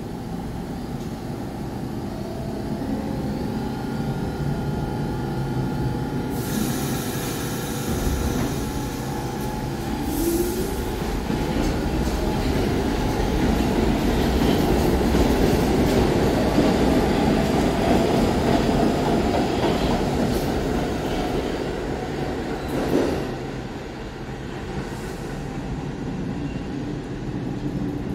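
New York City subway train running through the station, its rumble building to a peak in the middle of the passage and then easing off. Some steady whining tones come through early, and there is a short sharp screech or bang about 23 seconds in.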